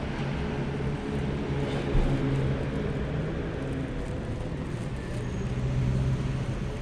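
A motor vehicle's engine running with a steady low hum over a constant rush of road noise, with a single short knock about two seconds in.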